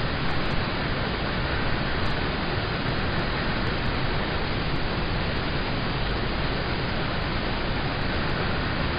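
Rain falling steadily on a car, heard from inside the cabin as a dense, even hiss with no separate drops standing out.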